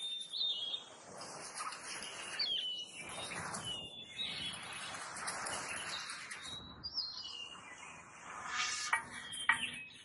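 Birds chirping: short, high, thin calls and little whistled glides come and go throughout, over a steady rushing background noise.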